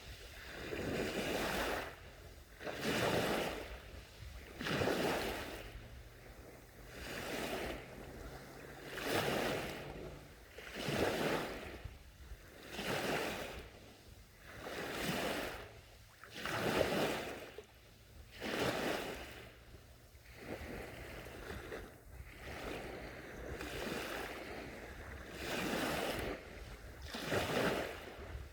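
Small sea waves washing onto the shore, one gentle surge about every two seconds, each swelling and fading away.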